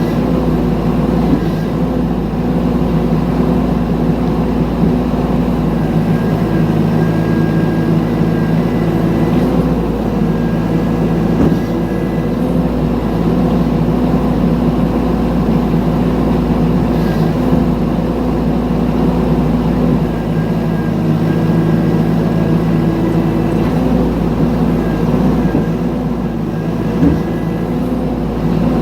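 Mini excavator's diesel engine running steadily under work, with a faint high whine that comes and goes several times.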